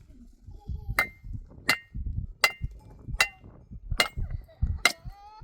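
Steady hammering: six sharp blows about three-quarters of a second apart, each with a short metallic ring.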